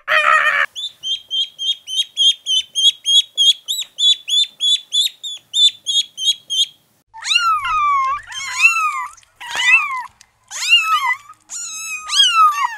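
Ducklings peeping, a fast steady run of high peeps about five a second, followed about seven seconds in by kittens meowing, a series of about six separate rising-and-falling meows. A short rapid pulsing call trails off at the very start.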